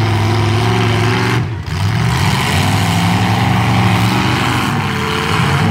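Demolition derby truck engines running loudly and revving, the pitch shifting up and down, with a brief dip about a second and a half in.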